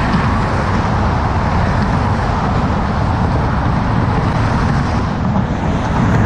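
Steady noise of motor traffic passing close by on the bridge roadway, a dense rumble heavy in the low end with no breaks.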